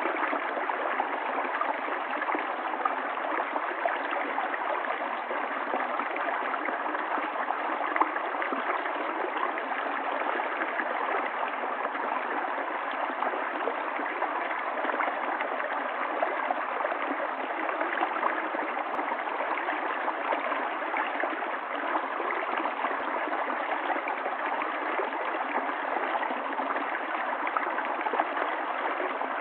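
Water running steadily in a small stream: a constant, even rush with small splashes flickering through it.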